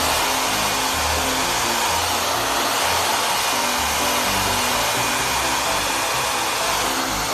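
Hand-held hair dryer running steadily, blowing on a puppy's fur, with background music under it.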